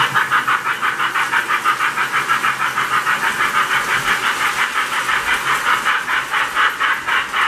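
Lionel J-class model steam locomotive's sound system chuffing in an even, rapid rhythm of about five chuffs a second.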